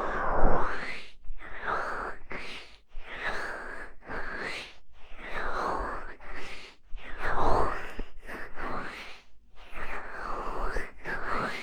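Hands cupping and rubbing over the ears of an ASMR microphone, in a run of muffled swishes about every second and a half, each with a sweeping hollow tone as the hand closes in and lifts off.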